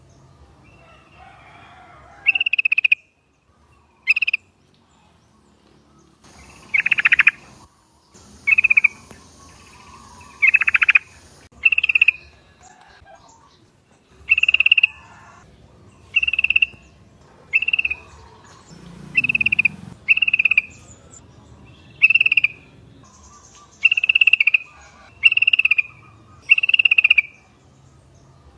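Yellow-vented bulbuls (trucuk) calling: short bubbly calls repeated about once a second, with a quieter gap of a few seconds near the start.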